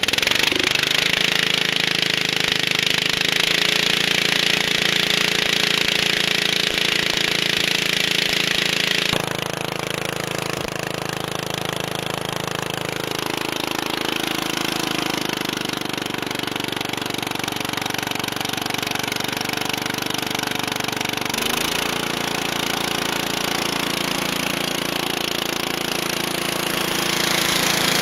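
Garden tractor engine running with its exhaust pipe removed, firing straight out of the open exhaust port. A loud hiss over the engine drops away about nine seconds in, and the engine speed shifts slightly twice.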